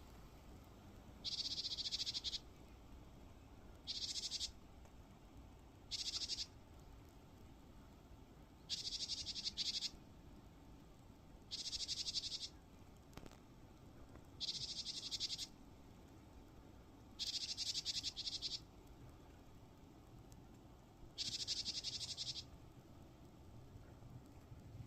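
A bird repeating a high, rapidly pulsed trill, eight calls of about a second each at uneven gaps of two to four seconds.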